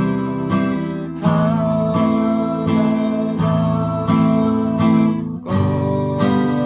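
Acoustic guitar strummed in a 3/4 waltz rhythm, a low bass note followed by two chord strums ("쿵짝짝"). The strokes are evenly spaced, with a chord change about five and a half seconds in.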